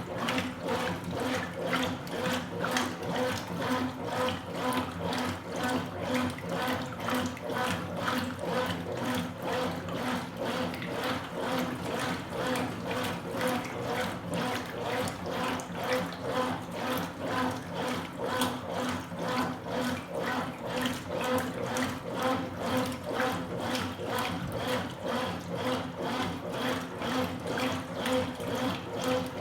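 Consul Supercargo 8 kg (CWL08C) top-load washing machine agitating a load of towels in water: the agitator swishes back and forth in a steady rhythm, with water sloshing over a steady motor hum.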